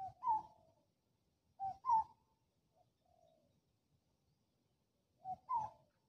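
A bird calling three times, each call two quick notes, a lower one and then a higher one that falls away slightly.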